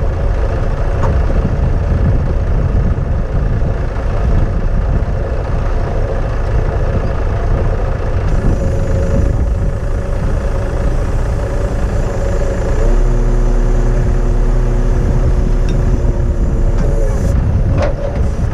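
Truck diesel engine running under heavy wind buffeting on the microphone. About 13 seconds in, a steadier, louder engine hum comes in for about four seconds, then drops back.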